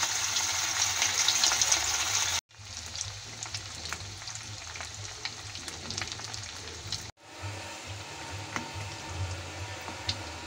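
Rice balls deep-frying in hot oil in a kadai: a steady sizzle with scattered pops and crackles. It cuts out briefly twice, about two and a half and seven seconds in, and is quieter after the first break.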